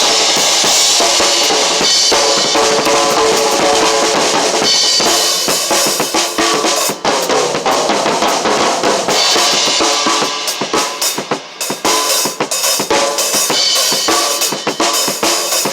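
Drum kit played continuously, with bass drum, snare and rimshots under cymbals. A dense wash of cymbals for the first few seconds gives way to sharper, more separate strikes.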